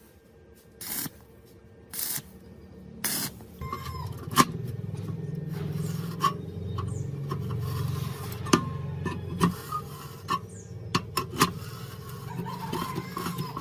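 Three short hissing sprays, about a second apart, during the first few seconds. After them come steady scraping and rubbing on metal with scattered sharp clicks.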